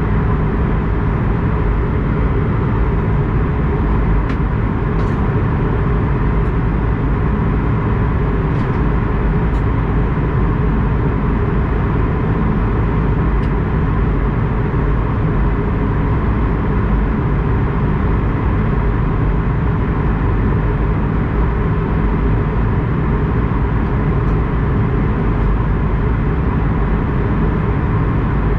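Steady drone inside the cabin of an Airbus A220-100, its Pratt & Whitney PW1500G geared turbofans and the airflow giving an unchanging low rumble with a faint steady whine, and a few faint clicks.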